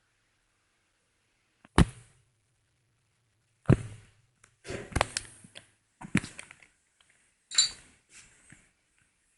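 About five sharp knocks and clanks, irregularly spaced, each with a short rattle after it: tools and metal parts being handled during a washing machine teardown.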